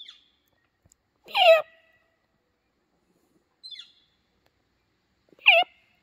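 An unidentified bird's odd call: two loud, short calls about four seconds apart, each a quick falling sweep from high to low pitch, with fainter high notes in between.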